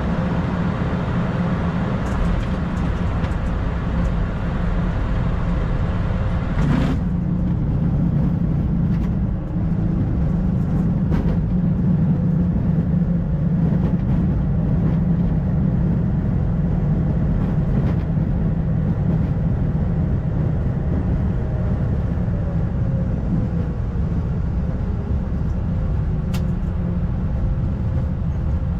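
Cockpit of an Airbus A220-300 on landing rollout: a loud, steady rumble of the engines and runway after touchdown. There is a single sharp knock about seven seconds in, and later a faint tone that slides down in pitch.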